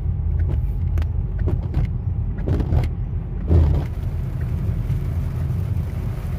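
Car cabin road and engine noise while driving: a steady low rumble, with scattered light ticks and a single louder thump about three and a half seconds in.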